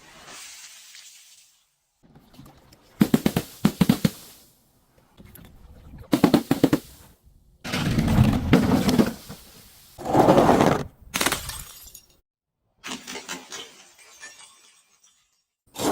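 Crunchy objects and glass being crushed and broken: a series of loud cracking, crunching bursts, each a second or so long, with short pauses between them.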